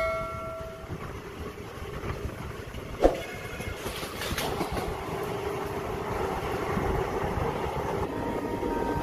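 Passenger train coach running along the track, heard from its open doorway: a steady rumble of wheels on rail with a sharp knock about three seconds in. A ringing chime dies away in the first second.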